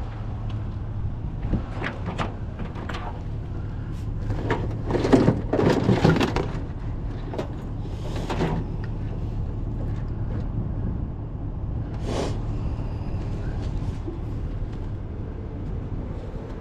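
Steady low hum of a vehicle engine, with a series of knocks and clunks such as doors and loose items being handled; the loudest clunks come about five to six seconds in.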